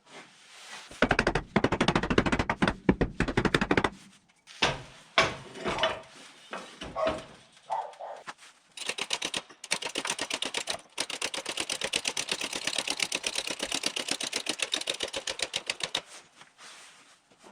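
Rapid mechanical knocking: a dense burst for about three seconds, then a few separate knocks, then a long, even run of fast clicks that stops shortly before the end.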